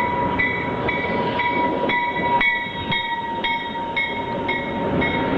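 Train pulling in, its rumble under a bell ringing about twice a second and a steady high whine.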